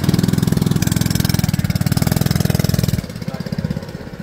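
Go-kart engine running loud and close with rapid, even firing pulses; it drops off sharply about three seconds in and fades away.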